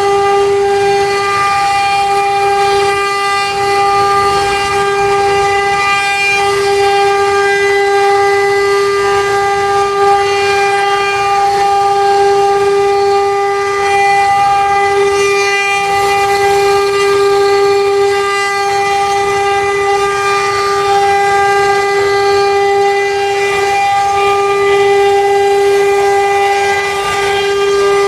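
CNC wood-carving router running, its spindle giving a loud, steady whine.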